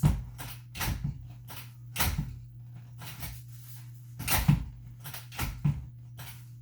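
Playpen frame and rails being handled and pulled up: a series of irregular knocks and clacks, the loudest about four and a half seconds in, over a steady low hum.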